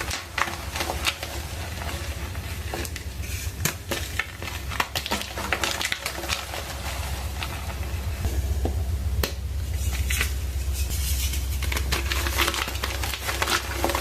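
A reformed block of black gym chalk being crushed, with many irregular crunches and crackles over a low steady hum.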